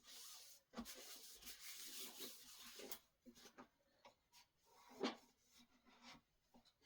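Faint rubbing or scraping against a surface for about three seconds, followed by scattered light taps and a single louder knock about five seconds in.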